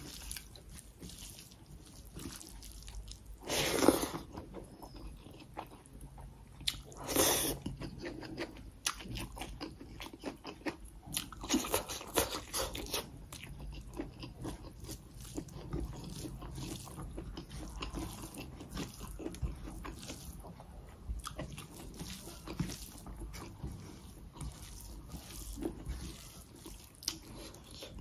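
Close-miked chewing and crunching of a person eating rice and local chicken by hand, with many small wet mouth clicks and a few louder bites about four and seven seconds in.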